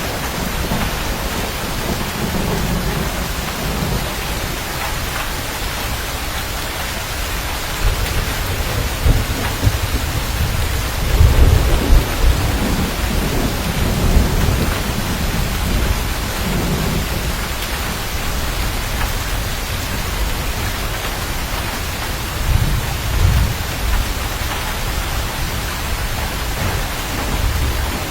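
Steady heavy rain with rolling thunder rumbling low beneath it, swelling loudest from about a third of the way in to the middle and again briefly near the end.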